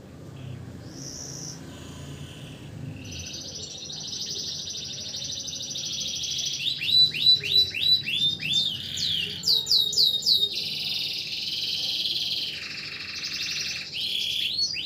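Domestic canary singing a long continuous song of buzzy trills and rapid series of sweeping notes, about five a second, growing louder from about the middle.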